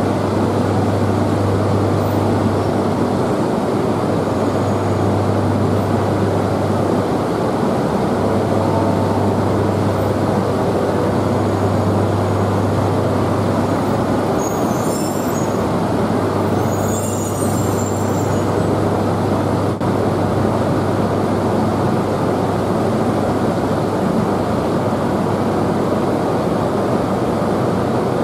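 Yamagata Shinkansen Tsubasa train creeping slowly along the platform, a steady low hum over a continuous rumble. Faint high-pitched sounds come in twice, a little past the middle.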